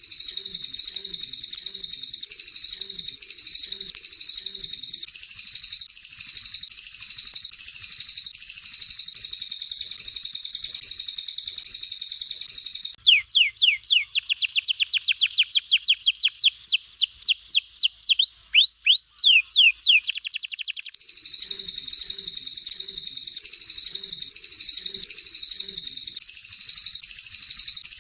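Recorded songs of a canary and a cililin, played one after the other as material for training songbirds. A dense, high, continuous trilling runs until about 13 seconds in. Then a fast run of separate downward-sweeping whistled notes takes over until about 21 seconds, and the high trilling returns.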